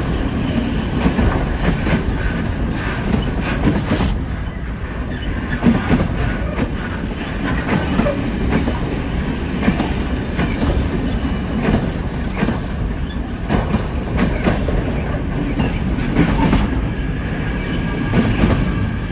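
A train rolling over railway switches (points), its wheels clacking in a steady stream over the joints and crossings above a continuous heavy rumble. A faint, steady high whine runs through it.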